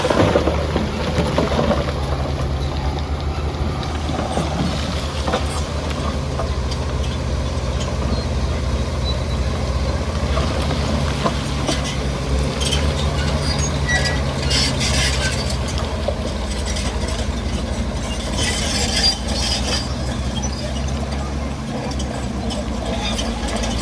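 Shantui bulldozer's diesel engine running steadily, with scattered clanks and scrapes as it pushes rock and mud.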